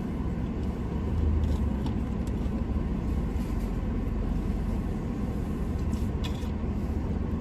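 Steady low rumble of a vehicle's engine, with a few faint clicks about six seconds in.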